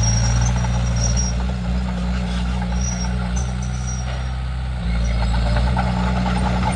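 Komatsu D31P bulldozer's diesel engine running steadily. It eases off slightly in the middle, then picks up again about five seconds in.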